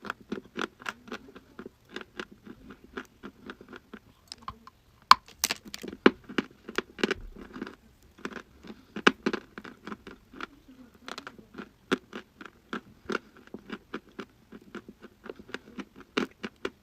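Dry crunchy chalk being bitten and chewed: a steady run of crisp crunches, a few a second, with a short lull about four seconds in.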